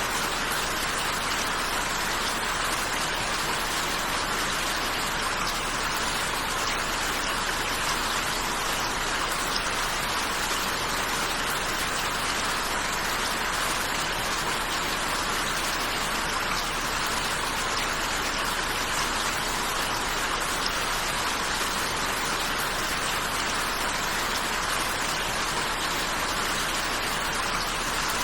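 Steady rainfall: a continuous, even hiss of rain falling on a surface, with no breaks or individual events.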